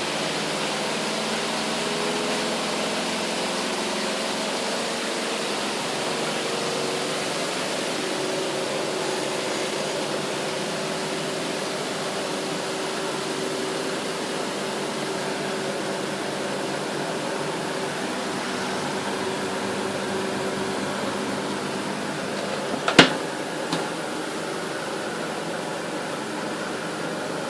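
Superbrite twin tub washing machine running with a steady whir and a faint hum that fades out about three-quarters of the way through. A single sharp click comes near the end.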